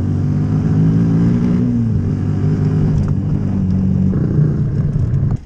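Dirt bike engine running at steady, fairly high revs on a trail ride, its pitch rising a little and then easing off about two seconds in.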